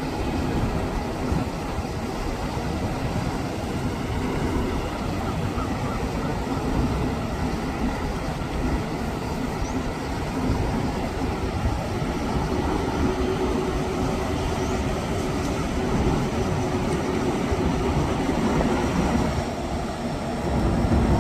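Mercedes-Benz intercity coach's diesel engine running with a steady low rumble, growing louder near the end.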